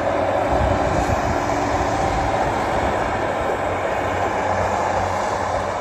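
Train running along the line, a steady noise with a low hum underneath.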